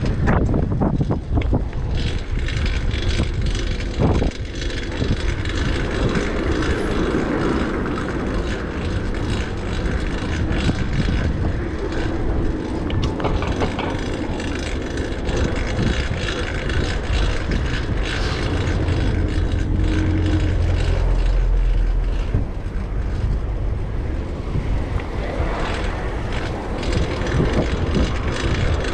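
City street traffic noise with wind buffeting the microphone, a dense steady rumble with a few knocks in the first few seconds.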